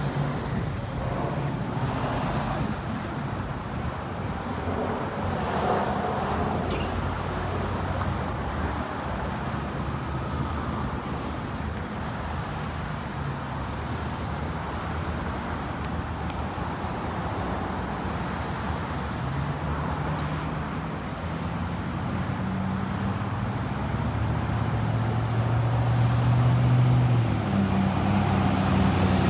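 Street traffic with the steady low drone of diesel school bus engines; an engine draws closer and grows louder over the last few seconds.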